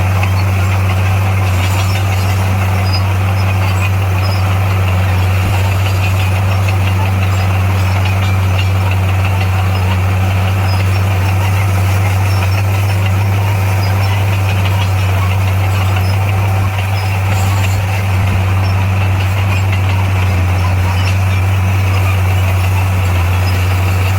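Diesel engine of a heavy earthmoving machine running steadily at constant speed, with a low, even hum.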